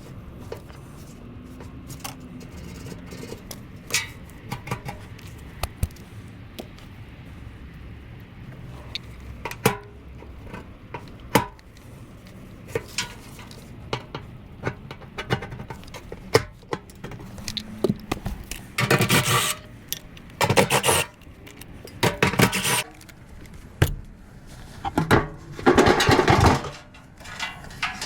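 Hand work on furnace parts: scattered clicks and knocks of tools and metal panels, then about five scraping or brushing strokes of a second or so each in the second half.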